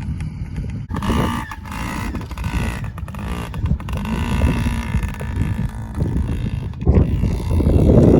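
Small children's dirt bike engine running as the bike is ridden, its pitch rising and falling with the throttle, getting louder near the end.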